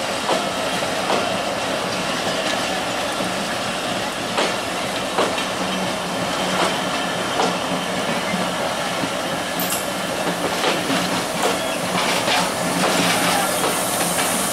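Bangladesh Railway passenger coaches rolling slowly past, their wheels knocking over the rail joints in spaced pairs above a steady rumble of rolling noise and a low hum underneath. A hiss rises near the end.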